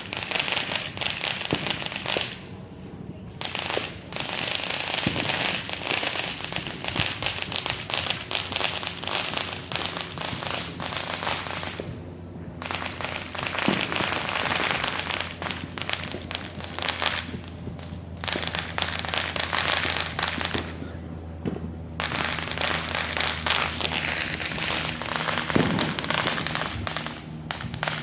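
Dense, rapid crackling and popping of many firecrackers and consumer fireworks going off at once. There are short lulls about two and a half seconds in, about twelve seconds in and about twenty-one seconds in.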